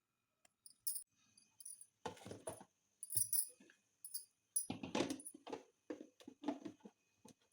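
Irregular handling noise, with short clicks, knocks and rustles in uneven bursts, as containers, bags and vegetables are moved about while a fridge is being organized.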